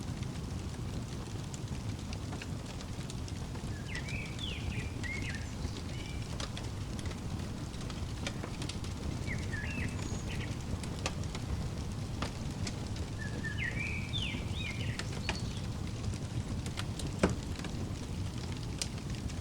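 Fireplace fire crackling: a steady low rumble with scattered sharp pops, the loudest about seventeen seconds in. A songbird sings short chirping phrases three times over it.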